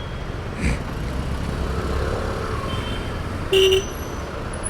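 Road traffic noise with a steady rush, heard from a moving motorcycle, and a short vehicle horn honk about three and a half seconds in.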